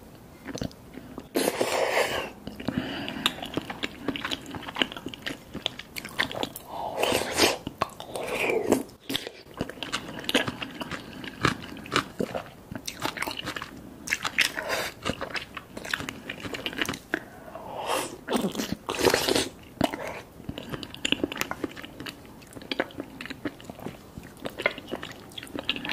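Close-miked wet chewing and mouth sounds of soft-boiled eggs in a thick spicy sauce being eaten, with many small wet clicks and a few louder slurps of sauce from a wooden spoon.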